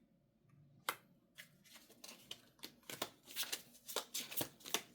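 A tarot deck shuffled by hand: one sharp card snap about a second in, then a quick run of card flicks and riffles that grows louder toward the end.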